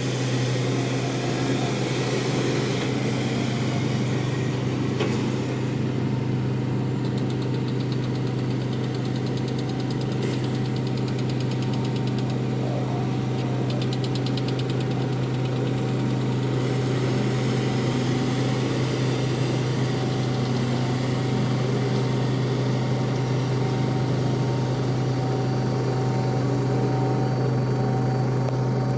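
Vehicle engine running steadily at an even speed, a constant low hum, with faint rapid ticking for a few seconds in the middle.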